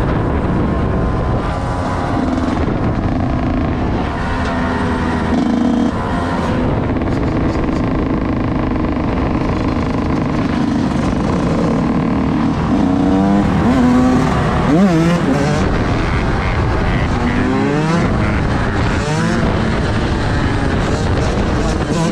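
Several vehicle engines running together, with revs rising and falling in quick glides around the middle of the stretch and again a few seconds later.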